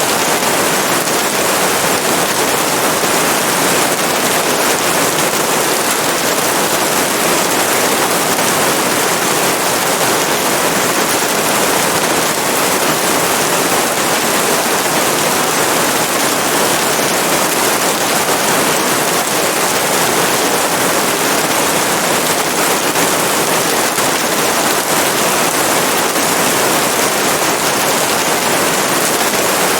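Steady heavy rain, a dense even hiss of falling drops with a fine crackle in it and no breaks.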